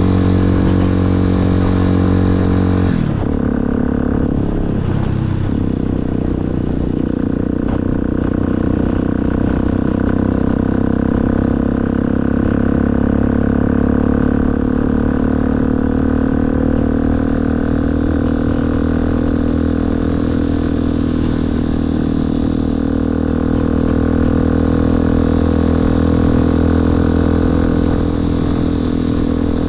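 Motorcycle engine running under way. Its pitch drops about three seconds in, as if easing off or shifting gear, then holds fairly steady.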